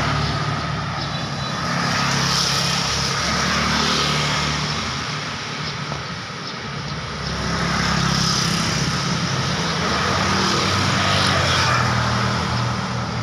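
Road traffic: several vehicles passing one after another, the engine and tyre noise swelling and fading as each goes by.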